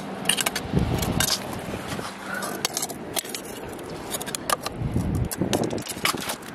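Irregular sharp clicks, clinks and scrapes of hard rock and oyster shell being knocked and probed while searching a crevice on a rocky shore, with a couple of dull thumps.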